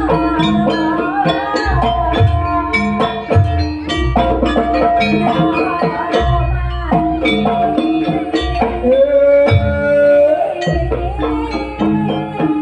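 Live Banyuwangi jaranan and gandrung music: hand drums and gongs keep a repeating beat under a sustained melody line that slides between notes.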